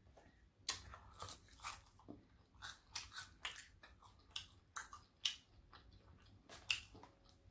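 A person chewing fried catfish nuggets and fries: irregular crisp smacks and crunches, a dozen or so across the few seconds.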